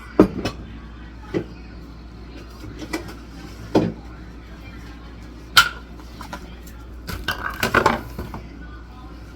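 Knocks and clinks of food containers and dishes being handled in a kitchen: several single sharp knocks, then a short burst of clatter near the end. Faint television talk and music run underneath.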